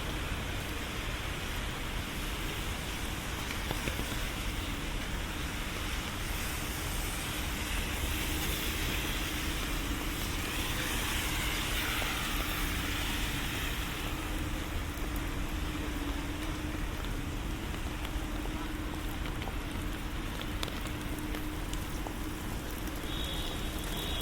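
Steady rain with city traffic on wet streets, over a steady low engine hum. A vehicle swishes past on the wet road in the middle, and a brief high beep sounds near the end.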